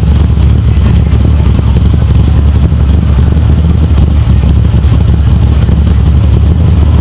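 Loud vehicle engine running steadily, holding one deep pitch throughout.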